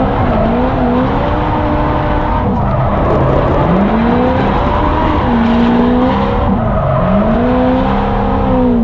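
Drift car engine revving up and down through a slide, its pitch swelling and falling several times, with tyres squealing and skidding underneath.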